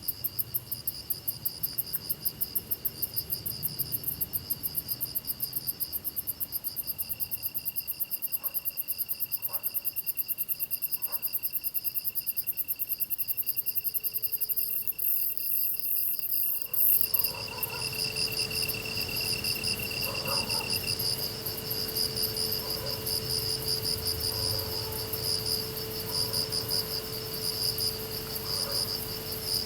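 A chorus of grass insects chirping and trilling, several kinds at once in fast, even high-pitched pulses and steady buzzing trills. About halfway through the mix changes abruptly, as the fastest high pulsing stops and a slower pulsing chorus takes over.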